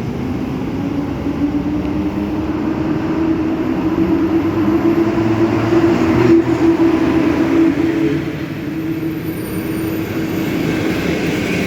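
EP07 electric locomotive hauling a long passenger train through the station: a steady rumble with a low hum that swells to its loudest about halfway through, then eases as the carriages roll by.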